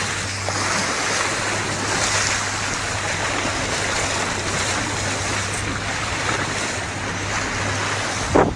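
Motorboat under way: a steady rush of water and wind along the hull over a low, even engine hum, with a short louder burst of noise just before the end.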